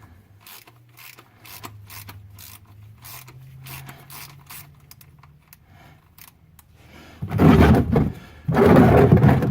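Ratchet on a 17 mm socket clicking irregularly as the oil drain bolt is worked loose, over a faint low hum. About seven seconds in, two loud bursts of rough scraping noise take over.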